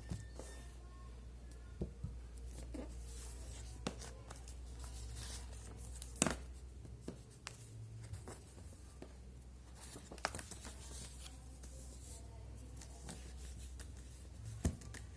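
A sheet of paper being folded and creased by hand: soft rustling with scattered sharp crackles, the loudest about six seconds in, over a low steady hum.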